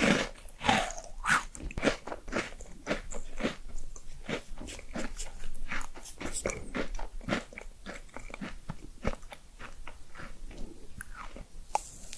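Close-miked mukbang eating sounds: a person biting and chewing food with crunchy, wet mouth clicks in quick irregular succession, busiest in the first couple of seconds.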